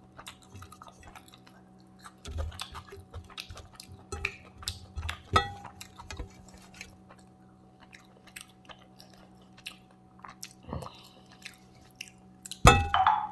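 Close-miked eating: irregular wet chewing and mouth smacks while eating chicken biryani, with a louder sharp click about five seconds in and a louder clatter near the end.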